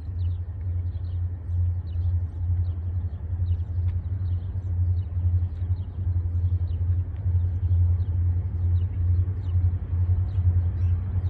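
Low, steady rumble of an approaching diesel-hauled autorack freight train, growing slightly louder, with faint high ticks about twice a second.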